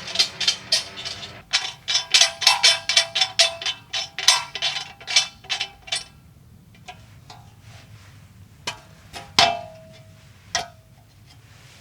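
A quick run of sharp clanking strikes with a short ring to each, several a second, then a few spaced single strikes, one ringing a little longer.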